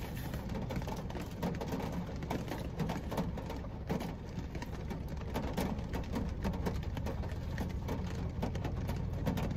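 Heavy rain pattering on a car's roof and windows, heard from inside the car: a dense spatter of drop impacts over a steady low hum.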